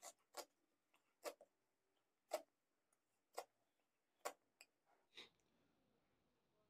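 Mouth smacking while chewing food eaten by hand: short, sharp clicks at an uneven pace of about one a second, stopping about five seconds in.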